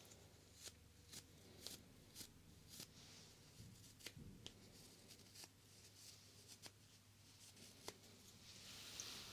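Faint close-up touching and brushing sounds on a binaural microphone: soft swishing strokes with many light clicks and taps scattered through, strokes swelling near the end.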